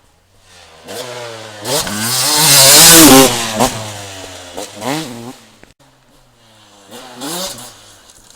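Motocross motorcycle engine revving hard as the bike passes close, loudest about three seconds in, then two shorter bursts of throttle as it draws away.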